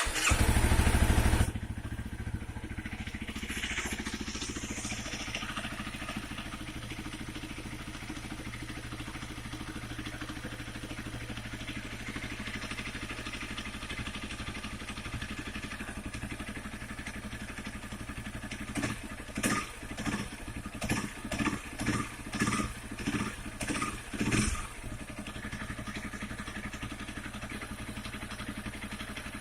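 2014 Honda CBR250R's single-cylinder engine catching and flaring on start-up, then idling steadily, with a quick string of about nine short throttle blips about two-thirds of the way through. The owner hears a strange "kak kak kak" from the clutch side of the engine when the throttle is blipped up and down.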